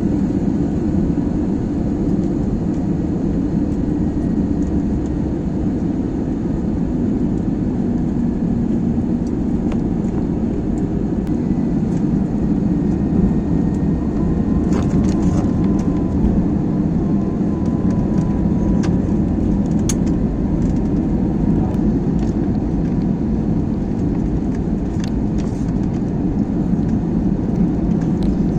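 Steady low rumble of an airliner heard from inside the cabin, jet engine and airflow noise holding an even level throughout.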